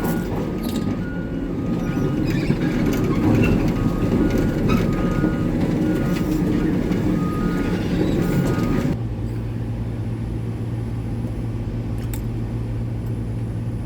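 Hitachi 890 excavator's diesel engine working hard with scattered knocks, while a back-up alarm beeps in a repeating two-tone pattern. About nine seconds in the heavy working sound drops off suddenly, leaving a steady, quieter engine hum.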